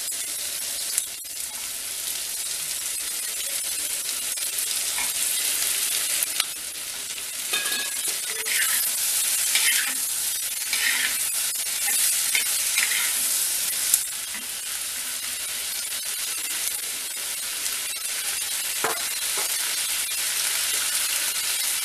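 Sliced onions, tomato and small slit eggplants sizzling in hot oil in a clay pot while a metal slotted spatula stirs and turns them, scraping now and then, with a couple of sharp knocks of the spatula about a second in and again in the middle.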